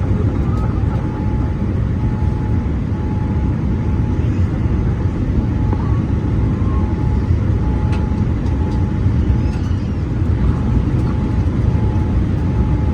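Steady cabin noise of a Boeing 787-8 in flight, heard from a passenger seat: a deep, even rumble of airflow and engines, with a faint tone that keeps breaking off and returning.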